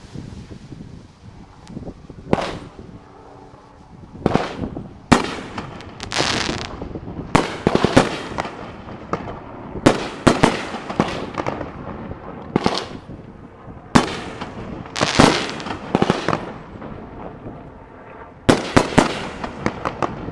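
Aerial fireworks shells bursting in a display: a series of loud sharp bangs at irregular intervals, several in quick clusters, each trailed by a rolling echo.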